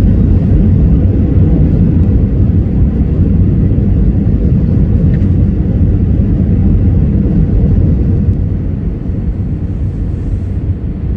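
Airbus A319 cabin noise heard from inside the passenger cabin: a steady, loud, deep rumble of the engines and airflow, easing slightly near the end.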